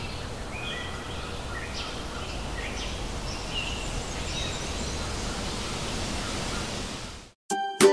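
Outdoor nature ambience: a steady noise bed with scattered short bird chirps and whistles. It cuts off suddenly near the end, and plucked-string music begins.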